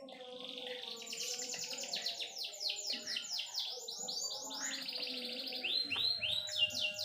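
A bird chirping in a fast, continuous run of short, falling high notes, growing louder, over faint steady low tones, then cutting off abruptly.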